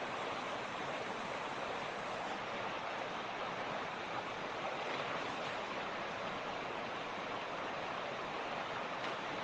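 Mountain creek rushing: steady water noise with no breaks.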